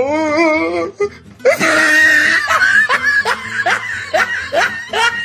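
Laughter over background music: a wobbling, drawn-out note for about the first second, then a quick run of short repeated laughs, about three a second.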